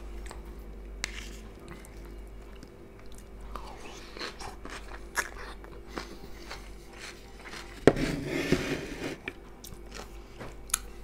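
A man chewing and crunching mouthfuls of fresh tomato-and-cucumber salad, with scattered small clicks and a louder crunchy stretch about eight seconds in.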